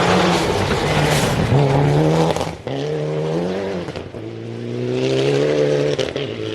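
Rally car engine revving hard under acceleration, its pitch climbing and then dropping sharply at gear changes about two and a half and four seconds in.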